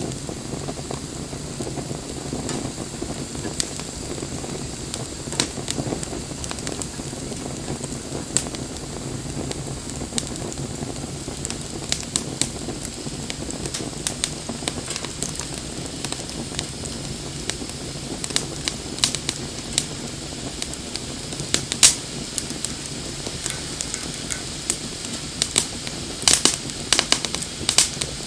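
Wood fire burning, with a steady low rush and irregular sharp crackles and pops; one loud pop about three quarters through and a quick run of pops near the end.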